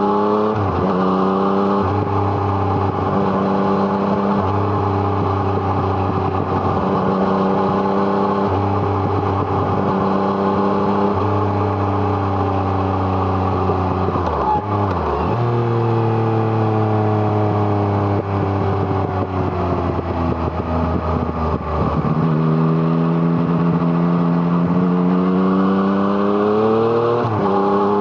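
Yamaha MT-09's 847 cc inline three-cylinder engine through an Arrow Thunder exhaust, ridden hard: revs climb and drop sharply at quick upshifts right at the start and about halfway through. Then the revs fall slowly for several seconds as the bike slows, before it pulls hard again and shifts near the end.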